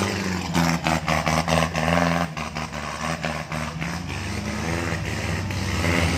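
Engine of an off-road 4x4 running under load as it climbs a steep muddy rut, its note shifting in pitch as the throttle changes. A run of sharp clicks and knocks comes in the first two seconds.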